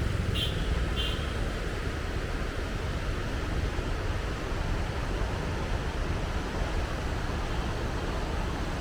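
Steady low rumble and hiss of road and engine noise inside a moving car. Two brief high chirps come near the start.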